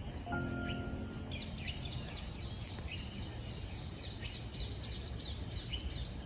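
Many birds chirping, a dense run of short quick calls over a steady low background rumble. A brief held tone sounds near the start.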